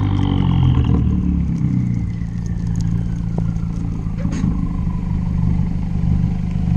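Exhaust of a tuned 2013 Fiat 500 Abarth's turbocharged 1.4-litre four-cylinder, heard at the rear bumper, coming off high revs and settling to a steady, pulsing idle. A high whine falls in pitch over the first few seconds as the engine slows.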